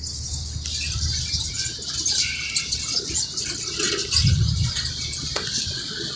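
Railway platform ambience beside a standing passenger train: a steady hiss with a low hum underneath, and a brief louder low rumble about four seconds in.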